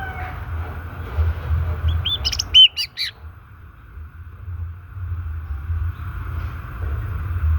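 White-rumped shama (murai batu) giving a quick burst of short whistled notes, each rising and falling, about two seconds in, over a steady low rumble. The tail of a rooster's crow fades out at the very start.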